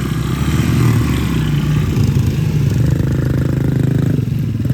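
Small dirt bike engine running at low revs, with a short rise in revs about three seconds in before it eases off.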